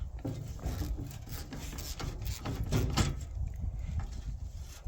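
Irregular metallic clanks, knocks and scrapes of hand tools on a welder's engine housing while bolts are being worked loose, the loudest knock about three seconds in.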